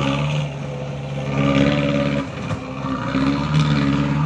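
A vehicle engine revving in repeated surges, rising and easing off every second or two, as it strains to climb a slippery muddy slope.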